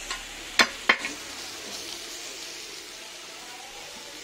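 Tomatoes and onions frying on a hot flat griddle, chopped with a metal spatula: three sharp clicks of the blade striking the griddle in the first second, then steady sizzling.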